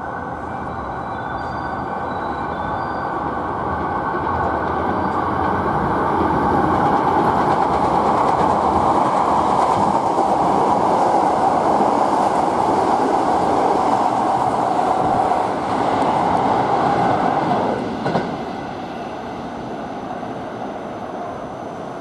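KTR8000-series diesel railcar running past at close range. Its engine and wheel noise build over the first seven seconds and hold loudest while the cars go by, then drop sharply about eighteen seconds in to a steadier, quieter running sound.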